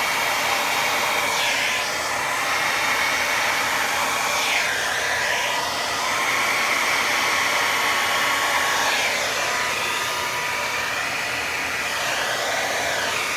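Hair dryer blowing steadily to push wet acrylic pour paint across a canvas. Its motor whine dips and rises in pitch several times.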